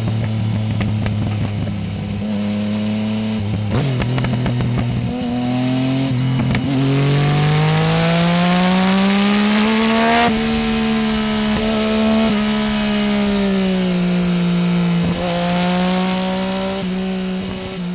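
Yamaha Tracer 900 GT's three-cylinder engine through a full Roads Italia aftermarket exhaust, under way: running steadily at low revs with some crackling about four seconds in, then revving up smoothly through a gear for about four seconds, rolling off, and settling to a steady lower note.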